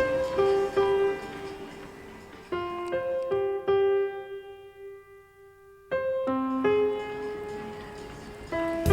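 Slow solo piano music: single notes struck and left to ring, fading to a near-quiet pause in the middle before the playing resumes.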